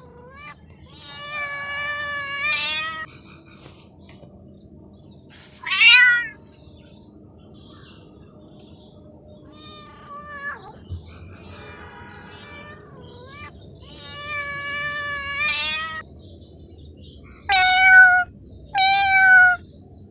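Domestic cats meowing: about six separate meows a few seconds apart, some long and drawn out, one sharp falling meow about six seconds in, and two loud short meows close together near the end.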